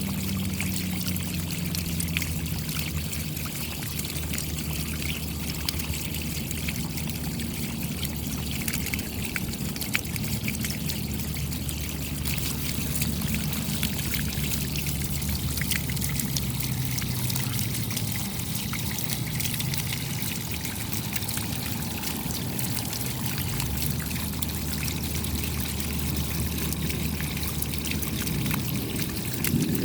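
Steady rain, countless small drops pattering in a dense, even hiss, with the sound of trickling water and a low rumble underneath.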